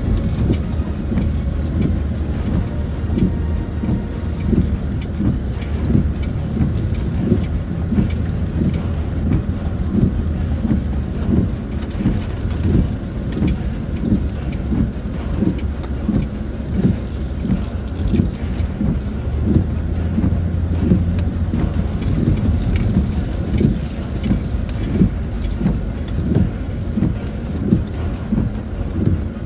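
Land Rover Discovery 4 heard from inside the cabin, driving slowly over a rough, wet track: a steady low drone of engine and tyres, with frequent irregular knocks and jolts from the bodywork and suspension, and rain.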